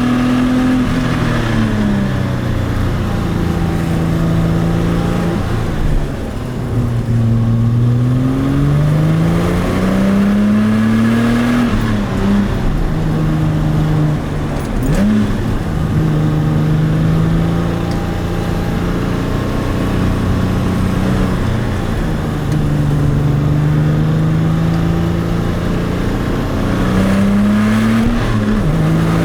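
Porsche 996 Turbo's twin-turbocharged flat-six engine driving through the gears. The revs climb and drop several times, with steadier stretches at constant revs and a couple of quick throttle blips, one around the middle and one near the end.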